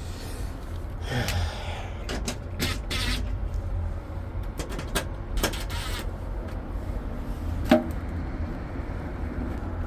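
Scattered clicks and knocks of hand work on a rooftop unit's control panel, over a steady low rumble. The loudest knock comes near the end.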